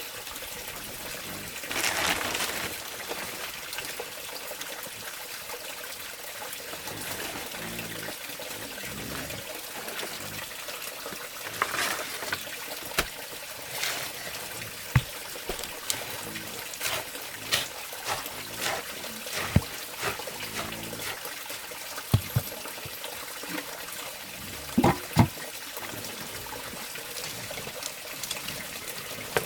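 Water trickling steadily, with scattered sharp knocks and clicks over it.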